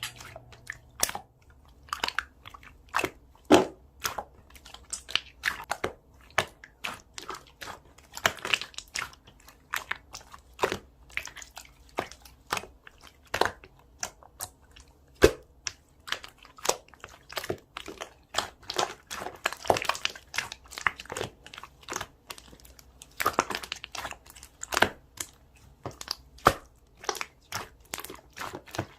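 Slime being squeezed and poked by hand, making irregular crisp clicks and pops, a few a second.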